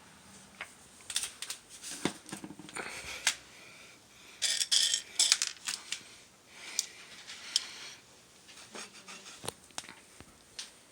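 Rustling, clicks and light clinks of things being handled, with a louder burst of rattling and rustling about four and a half seconds in.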